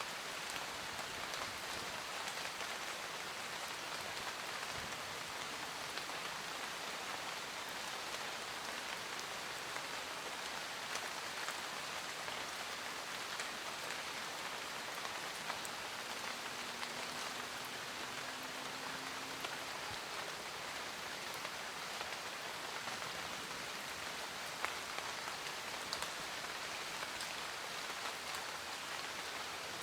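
Steady rain falling, with many individual drops ticking on surfaces. For a few seconds in the middle a faint low hum sits under it.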